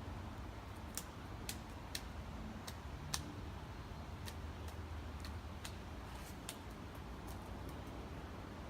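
Woodpecker pecking at wood: a dozen or more single sharp taps at uneven intervals, at most about two a second, starting about a second in.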